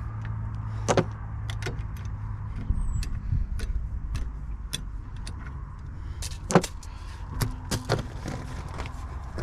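Scattered sharp clicks and clinks of metal tools and parts being handled at a car's front wheel during brake work, the loudest about a second in and again past six seconds, over a steady low hum.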